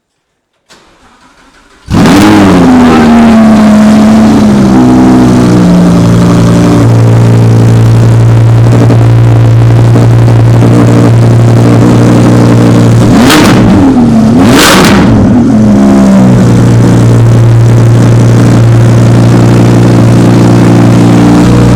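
Audi R8 Plus 5.2-litre V10 cold start through an exhaust without particulate filter: the engine fires about two seconds in with a flare of revs, then settles to a steady high cold idle. About halfway through, two quick throttle blips send the revs up and down before it returns to idle.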